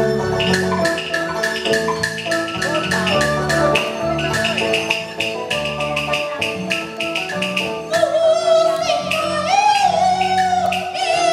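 Taiwanese opera ensemble playing an instrumental passage driven by a steady run of rapid percussion strikes; about eight seconds in, a singer's wavering voice enters over the accompaniment.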